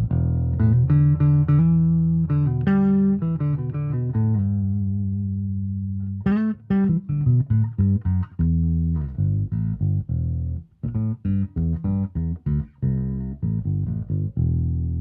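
Stock 2014 Gibson Thunderbird electric bass, with its stock pickups and nickel strings (45–105 gauge), played with its controls set at noon. It plays a run of plucked notes, a held note about four seconds in, then a string of short, clipped notes ending on a held note.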